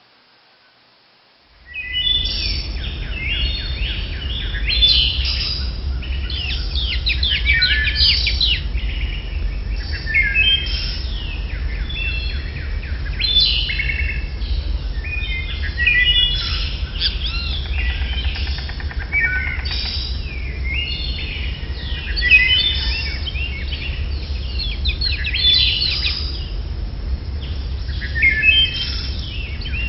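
Birds chirping busily, many short high calls overlapping one another, starting abruptly about two seconds in over a steady low rumble.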